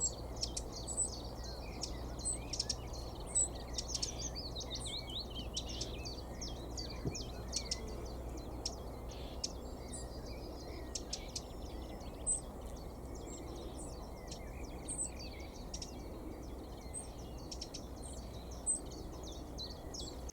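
Small birds chirping and singing, with many short high calls and trills all through, over a steady low background rumble.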